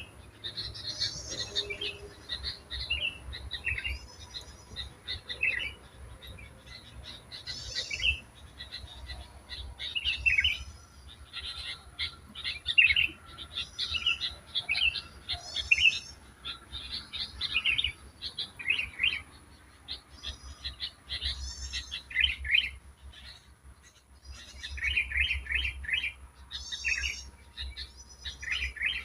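Wild songbirds chirping and singing in short, bright repeated phrases every second or two, over a faint low rumble.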